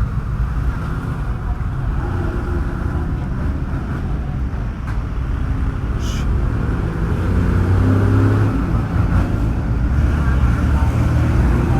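Motor vehicle engines and road traffic running, getting louder about seven seconds in as an engine comes closer or revs.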